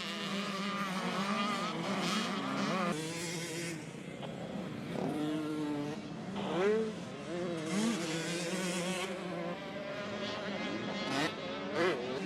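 Several motocross dirt bike engines revving on the track, their pitches rising and falling and overlapping.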